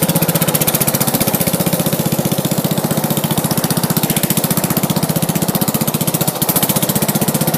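1996 Craftsman lawn tractor engine running steadily at idle, a fast, even chugging of about a dozen beats a second.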